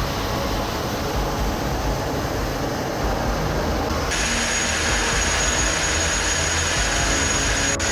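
Jet aircraft engine noise: a steady rush that changes abruptly about four seconds in, then carries a steady high whine.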